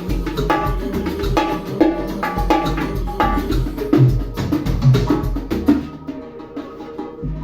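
A beat played on conga drums, with drums and a bass line, in a steady rhythm. About six seconds in the percussion drops away, leaving a thinner sound.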